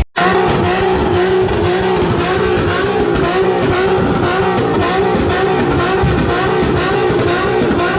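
Car engine held at high revs, loud and steady, its pitch wavering rapidly up and down.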